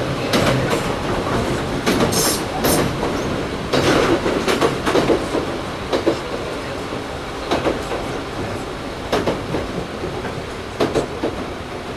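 Running sound inside a Toyohashi Railway 1800-series (ex-Tokyu 7200) motor car: a steady rumble with wheels clacking irregularly over rail joints, loudest in the first half.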